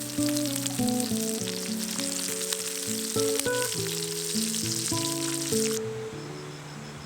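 Food sizzling and crackling in a hot pan, cutting off suddenly near the end, over background acoustic guitar music.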